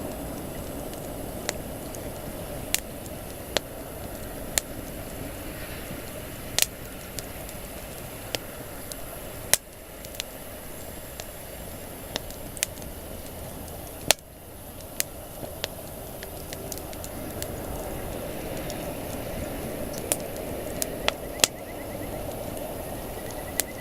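Wood campfire burning with a steady hiss and sharp, irregular pops and crackles from the burning wood.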